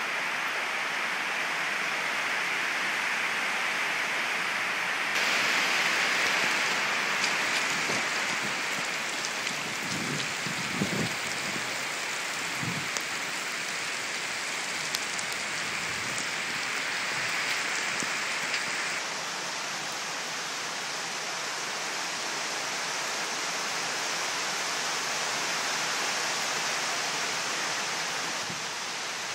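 Heavy rain pouring steadily onto flooded ground, with running water. The rush grows brighter and louder about five seconds in and eases back near twenty seconds, with a few dull thumps around the middle.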